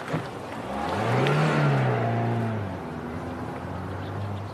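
Car engine swelling and rising in pitch about a second in, then falling back to a steady lower hum, with a brief knock at the very start.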